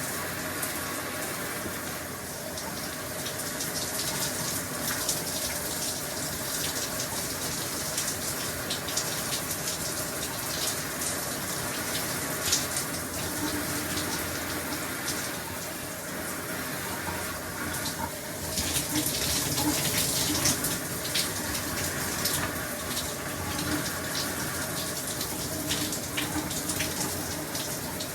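Shower running steadily, the water spraying and spattering with many small sharp splashes; it gets a little louder for a couple of seconds about two-thirds of the way through.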